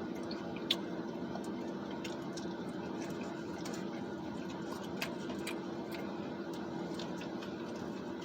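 Scattered faint clicks and smacks of someone eating fried chicken, over a steady low hum.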